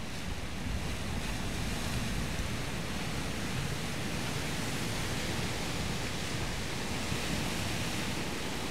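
Steady rush of sea surf breaking and washing.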